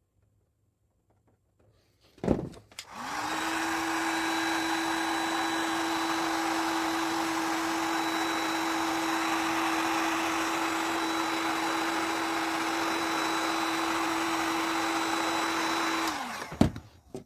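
Heat gun switched on with a click, its fan motor spinning up to a steady whirring hum with rushing air for about thirteen seconds, then switched off, the hum dropping away before a second click.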